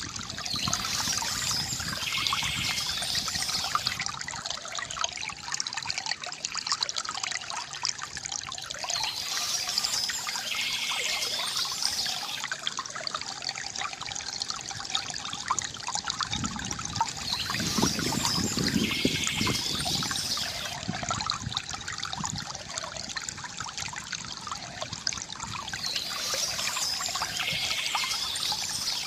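Water trickling and splashing steadily from a bamboo fountain, with brighter swells of splashing that recur about every eight seconds.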